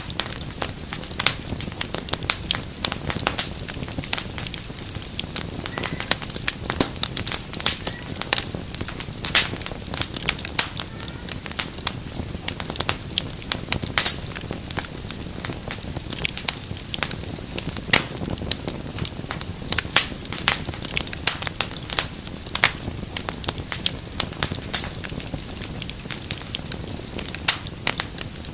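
Fireplace fire crackling, with dense, irregular pops and snaps over a soft low rumble of the flames.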